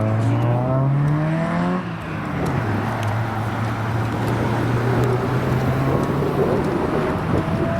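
Car engine pulling away, its pitch rising for about two seconds, then dropping at a gear change and running steadily on, with another engine note rising near the end.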